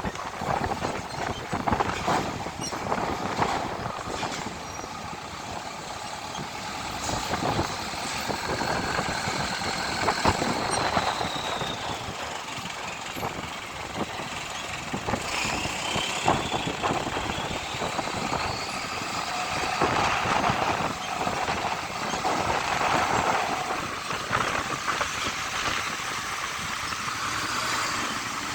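Heavy diesel trucks running and moving slowly in a queue, with repeated knocks and clatter. A high squeal glides up and down twice, about a third and about halfway through.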